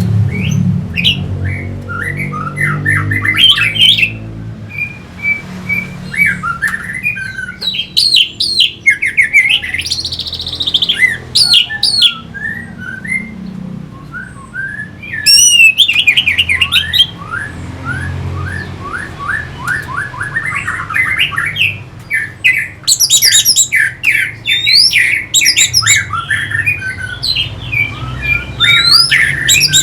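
Orange-headed thrush (anis merah) singing a varied song of fast repeated sweeping notes and trills, in phrases broken by short pauses, over a steady low hum.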